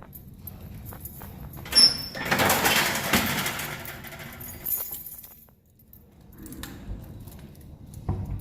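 Keys jangling and a door being opened: a sharp high squeak about two seconds in, then about two seconds of loud rushing noise, with small knocks and clinks after.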